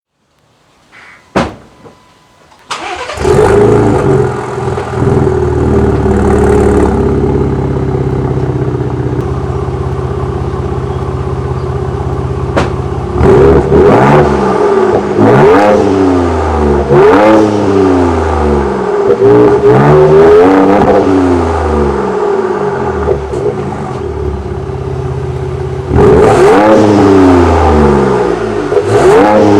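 Ford Ranger Raptor's 3.0-litre twin-turbo V6 starts up about three seconds in and settles into a steady idle. Later it is revved in a string of quick throttle blips, each rising and falling, with two more blips near the end.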